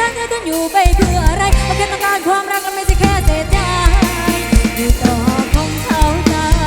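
Live band music: a wavering lead melody, sung or played, over drum kit and bass. The bass and drums drop out briefly about two seconds in and come back about a second later.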